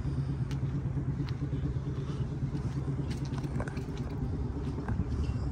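A motor vehicle's engine running steadily with a low rumble, with a few faint clicks over it.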